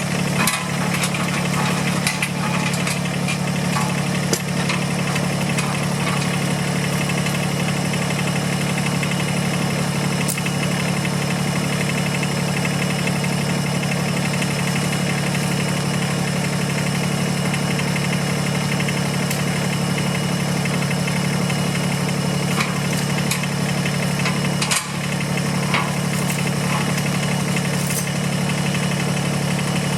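Kubota tractor's diesel engine running steadily, with occasional sharp clicks and knocks over it and a brief dip in level near the end.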